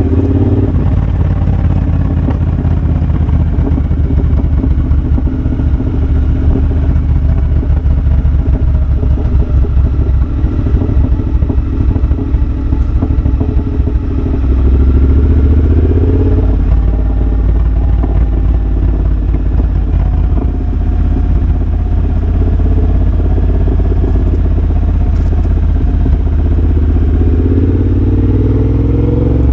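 Triumph Bobber's 1200 cc parallel-twin engine running through a de-catted X-pipe and Motone shorty exhaust while the bike is ridden. Its note rises as it accelerates about halfway through, and again near the end.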